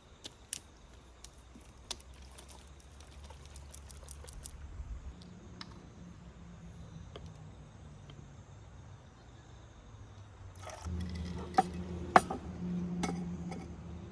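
Scattered light clicks and taps of objects being handled, thicker in the first few seconds; a low steady hum comes in about three-quarters of the way through, with a few sharper clicks over it.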